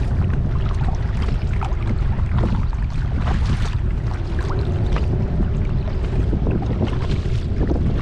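Kayak paddling on a lake: water splashing and dripping from the paddle and lapping at the hull. Under it runs a steady low rumble of wind on the microphone.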